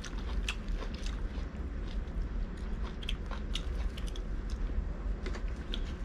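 A person chewing and biting into air-fried barbecue duck close to the microphone, with scattered sharp clicks and smacks between chews over a steady low hum.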